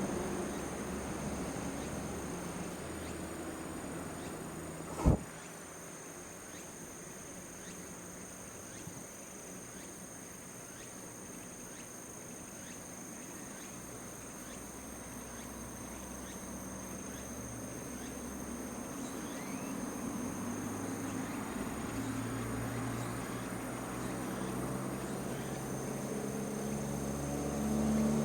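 Outdoor ambience of steady high insect trilling over a low motor hum that fades and then swells again toward the end, with one sharp knock about five seconds in.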